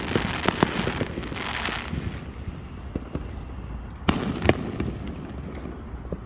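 Fireworks going off: a quick run of sharp pops and bangs in the first second, a crackling hiss after it, then a louder cluster of bangs about four seconds in.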